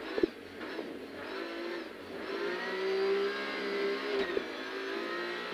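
Rally car's engine heard from inside the cabin, picking up about a second in and then running at steady revs. A sharp knock comes just after the start.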